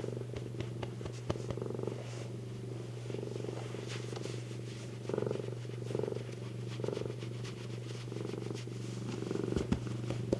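Domestic cat purring steadily, the purr swelling and easing with each breath about once a second, with a few faint light clicks.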